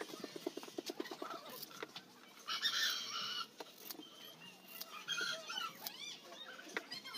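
Faint bird calls in the background: a quick rattling run of pulses in the first second and a half, a louder short call about two and a half seconds in, then a few more short calls.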